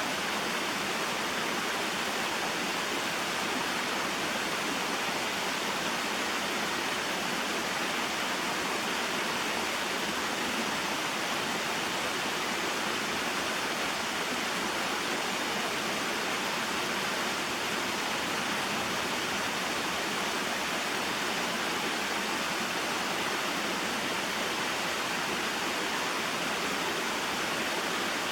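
Small waterfall and mountain stream: water falling and rushing in a steady, unbroken hiss.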